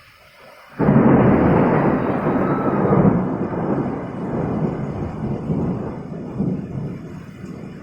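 Thunder during a heavy rainstorm: a sudden loud clap about a second in, then rumbling that slowly fades over several seconds.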